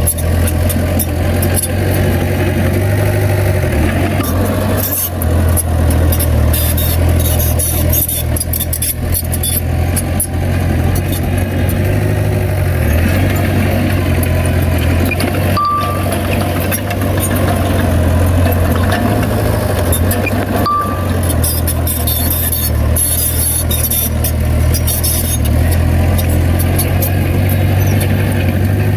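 Heavy diesel earthmoving machinery running steadily under load, with a deep engine drone and constant rattling and clanking. Two short high beeps sound about five seconds apart in the second half.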